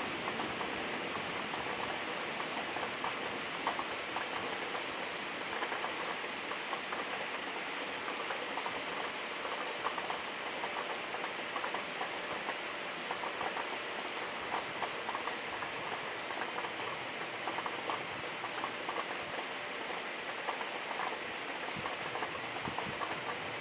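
Steady rain falling, with many small drops ticking and pattering close by.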